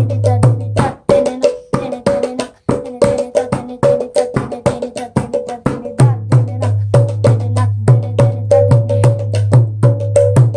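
Mridanga (khol) drumming in a fast rhythm of sharp strokes, about six a second, with the resonant tone of the drum ringing between strokes. A deep hum sounds under most of it and drops out for a few seconds after about a second in.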